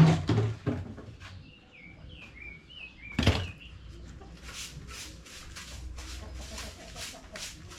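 Chickens chirping, with a few knocks at the start and a sharp thump about three seconds in. From about halfway through comes a run of short scraping strokes, about three a second: a broom sweeping the floor of the coop.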